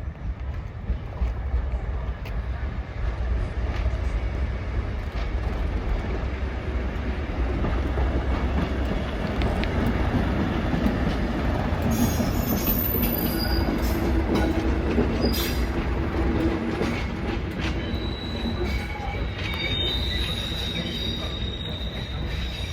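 Passenger service train running into a station: a steady low rumble of engine and wheels on the rails, with high squeals of wheels and brakes from about halfway through and a steady high squeal near the end.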